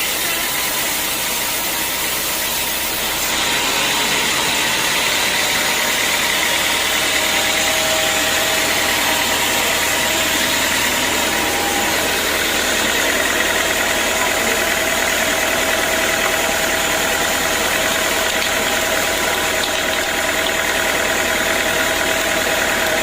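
Sawmill machinery running steadily. It grows louder and hissier about three seconds in and holds there.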